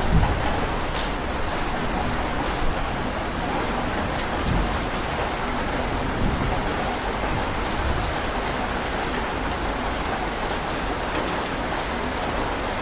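Heavy rain falling steadily in a dense, even hiss, with a low rumble of thunder at the start.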